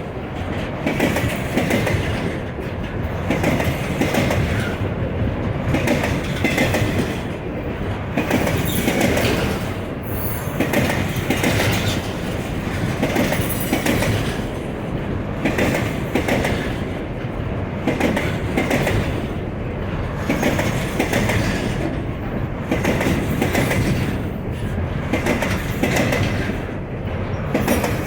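Container freight train wagons rolling past, their wheels clacking over rail joints in a repeating rhythm every second or two over a steady rumble, with some wheel squeal.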